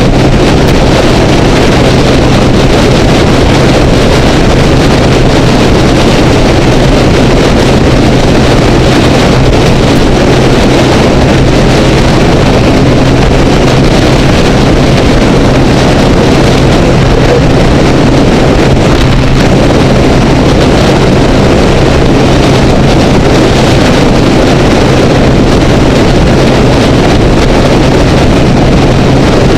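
Honda Rebel motorcycle cruising at freeway speed: a steady engine drone under loud wind and road rush, muffled by a waterproof camera housing.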